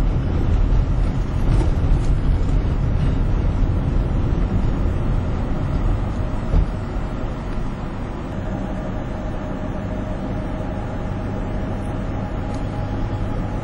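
Road traffic noise heard from a moving vehicle: a steady low rumble of engines and tyres. It gets a little quieter from about eight seconds in, and there is a brief knock about halfway through.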